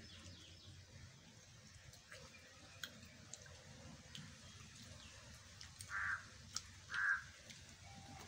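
Faint chewing and lip-smacking clicks while eating by hand, with two short bird calls, one about six seconds in and one about a second later; the calls are the loudest sounds.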